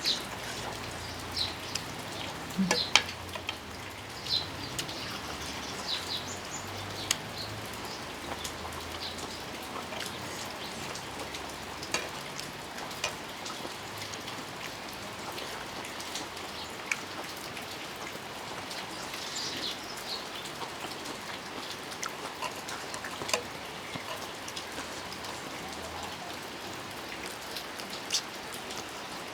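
Steady rain falling, with scattered sharp drip-like clicks and a few short high chirps.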